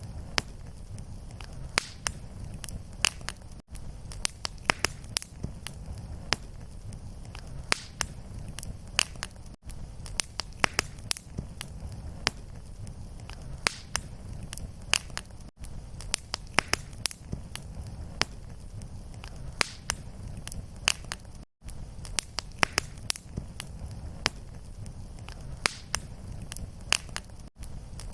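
Fireplace fire crackling, with frequent sharp pops and snaps over a low rumble. A brief gap in the sound comes about every six seconds, the splice where the fire recording loops.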